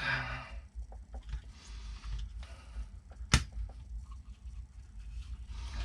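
Small plastic RC truck parts handled and fitted on a workbench: faint rustling and light clicks, with one sharp click a little over three seconds in.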